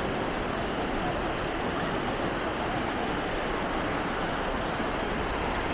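Steady beach ambience: an even rushing wash of surf and open-air noise with indistinct voices mixed in.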